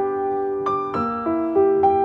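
Piano music: notes and chords struck at a gentle pace, each one ringing and fading before the next.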